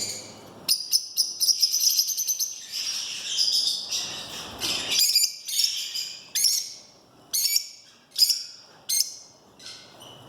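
Lovebird chicks giving high, rapid begging chirps while being hand-fed: a fast continuous run at first, then shorter bursts of calls about once a second.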